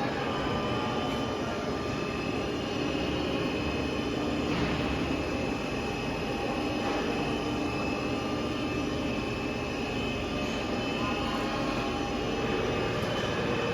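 Workshop machinery running steadily, a constant mechanical hum with a steady high whine over it.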